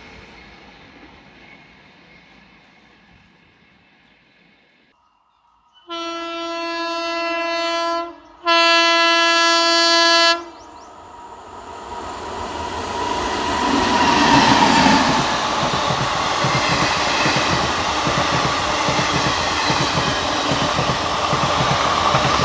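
An Indian Railways express train's locomotive horn sounds two steady blasts, the second louder, as the train approaches. Its wheels then clatter over the rail joints, the rumble growing louder as it nears and runs past. Before the horn, the noise of an earlier train fades away.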